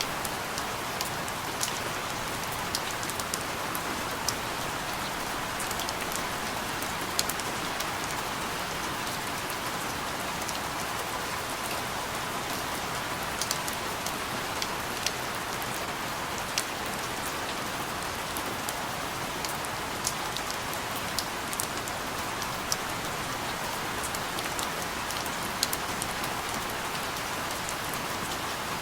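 Steady rain falling, an even hiss with individual drops ticking sharply on a surface here and there.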